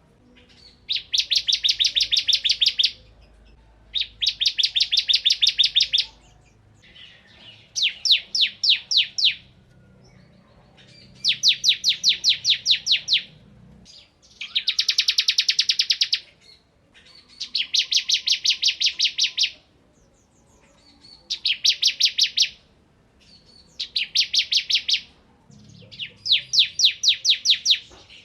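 Bar-winged prinia (ciblek kristal) singing in repeated bursts of rapid, sharp, evenly spaced notes, about nine a second. Each burst lasts one to three seconds, with short pauses between: the fast, rattling 'ngebren' song of a bird singing at full form (gacor).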